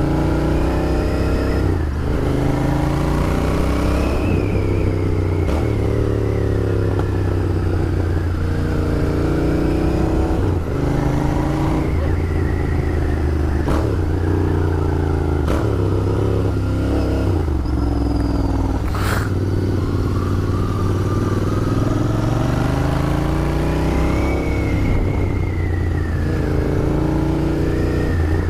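Royal Enfield Interceptor 650's 648 cc parallel-twin engine under way, its pitch climbing and then dropping again and again as the bike accelerates and shifts through the gears.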